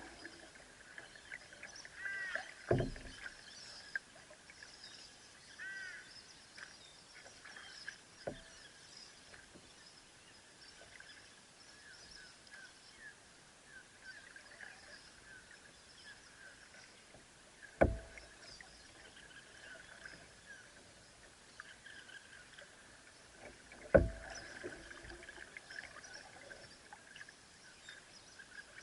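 A canoe paddle knocking against the canoe's hull: four sharp single knocks several seconds apart, the ones near 18 and 24 seconds the loudest. Steady high-pitched chirping runs underneath.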